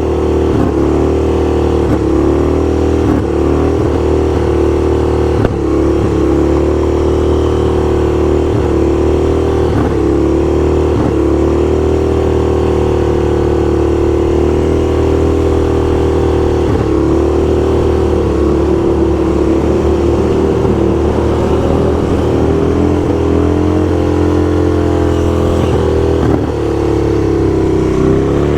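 Motorcycle engine running steadily while being ridden, its note dipping and picking up again several times with throttle changes.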